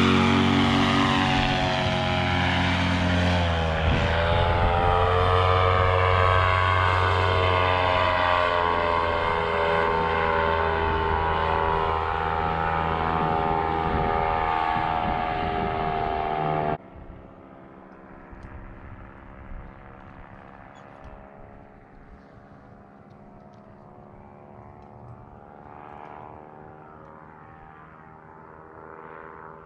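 A propeller aircraft engine running loud, its pitch dipping and then rising again a few seconds in. It cuts off abruptly just after halfway, leaving only faint low background.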